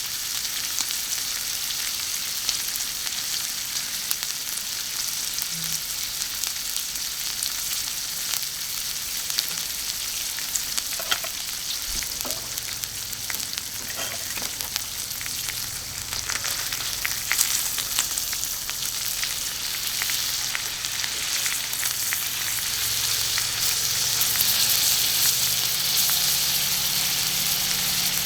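Food sizzling on a thick iron griddle over charcoal: a steady high hiss with scattered crackles and pops, a few clicks about halfway through, growing a little louder near the end.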